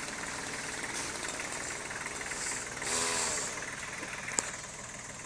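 An engine idling steadily, with a brief louder rushing swell about three seconds in and a single sharp click a second later.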